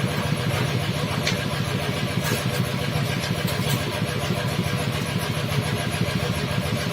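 Bored-up Vespa two-stroke single-cylinder engine running steadily at an even speed, with a fast, regular exhaust pulse.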